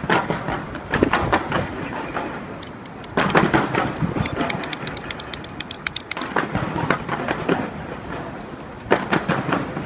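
Aerial fireworks bursting in a rapid series: sudden booms every second or few, each trailing into dense crackling.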